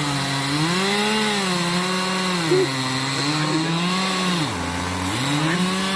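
Two-stroke chainsaw running under throttle as it carves wood, its engine pitch rising and falling. About four and a half seconds in it drops briefly toward idle, then revs back up.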